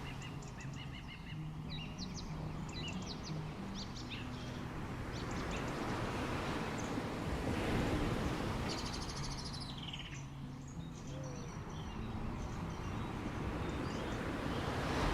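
Beach ambience: birds chirping and calling over a steady wash of noise that swells and eases, with a fast falling trill about nine seconds in.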